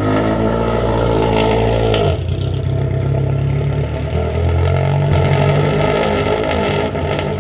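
Rally car engine running close to the exhaust, loud, its note stepping down about two seconds in and shifting again around five seconds.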